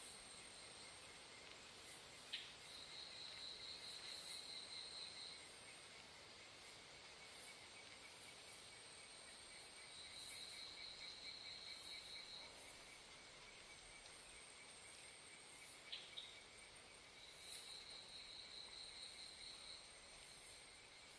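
Faint insects chirring: a steady high buzz with a pulsing trill that comes and goes in three bouts of two to three seconds each. There are two brief clicks, about two seconds in and about sixteen seconds in.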